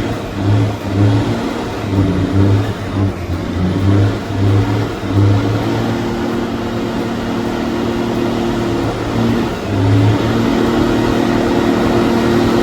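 Big-rig engine revving hard in quick repeated surges, then held at a steady high rev, with one more surge about ten seconds in before it holds again.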